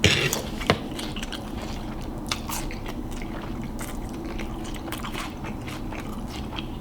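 A person chewing a mouthful of noodles with Flamin' Hot Cheetos, with crunching and many small, sharp mouth clicks.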